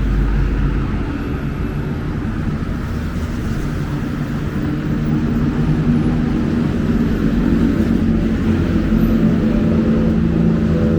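City road traffic: a steady low rumble of motor vehicles. About halfway through, a nearby engine's steady hum comes up over it.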